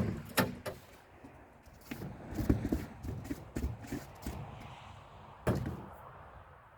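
A series of knocks and clunks with no engine running: a sharp one at the start, a cluster of lighter thuds a couple of seconds in, and another sharp knock near the end.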